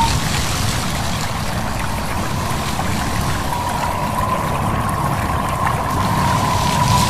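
Steady rushing of wind and a running stream. A thin, steady high tone fades out at the start and comes back about halfway through.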